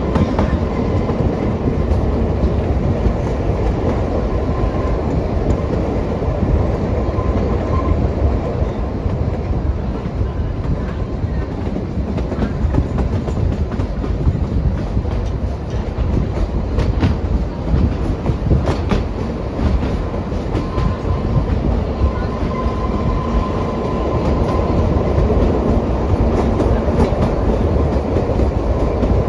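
Kalka–Shimla narrow-gauge toy train running: a steady, loud rumble of the wheels on the track. A cluster of sharper clicks comes about two-thirds of the way through.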